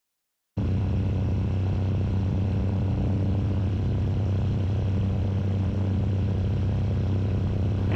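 Steady drone of a Tecnam Sierra light sport airplane's Rotax 912 flat-four engine and propeller in level flight, heard inside the cabin. It cuts in abruptly about half a second in after silence.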